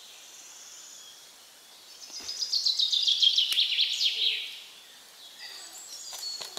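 A songbird singing one song of quick, high notes that falls in pitch over about two seconds, starting about two seconds in. A few faint knocks are heard around it.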